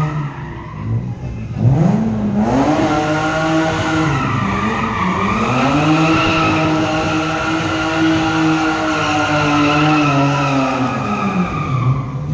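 A drifting car's engine revving hard, its pitch rising and falling in the first few seconds, then held high for several seconds before dropping near the end, with its tyres skidding and squealing.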